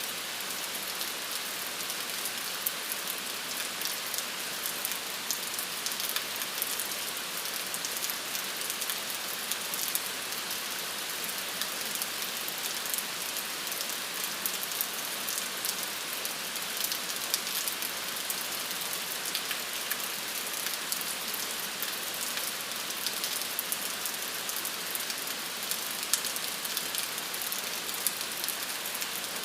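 Steady rain falling on a surface, a continuous high hiss dense with small drop ticks.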